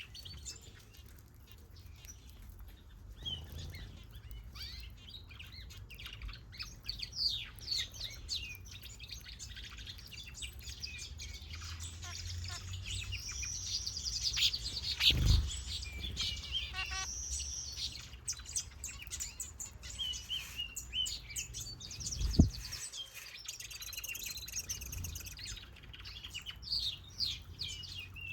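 Mixed aviary finches and softbills chirping and calling: many short, high chirps and trills overlapping, busiest in the middle. Two dull thumps stand out, one about halfway and a sharper, louder one about two-thirds of the way through.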